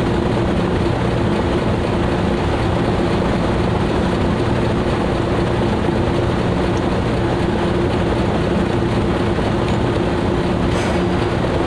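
A fishing boat's engine running at a steady speed, a loud, even drone.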